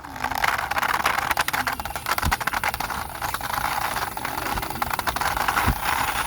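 Small plastic wheels of a toy motorbike rolling along a wall's surface as it is pushed by hand: a steady, gritty rattle of fine clicks, with a couple of low bumps.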